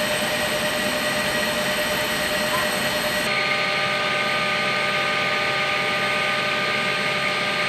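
Steady turbine whine of a CH-53E Super Stallion helicopter, with several high steady tones over a dense rush of noise. About three seconds in, the tone mix changes abruptly.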